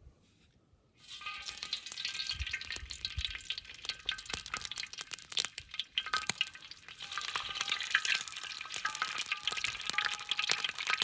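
Food frying in a hot pan: sizzling and crackling start about a second in and keep going, dense with small pops.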